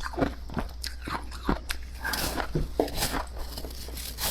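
Close-up mouth crunching and chewing of powdery freezer frost: a run of irregular, crisp little crunches, over a steady low hum.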